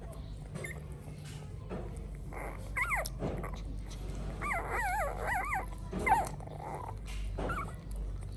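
Young puppies whimpering while nursing, in short high squeals, with a longer wavering warble about halfway through.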